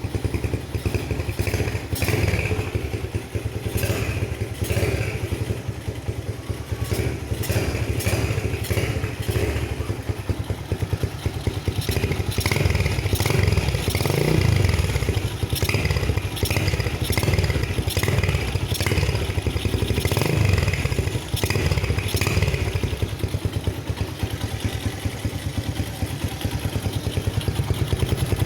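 Motorcycle engine running through an imitation kleper open exhaust, a loud steady low note with a few brief swells in engine speed and scattered crackles.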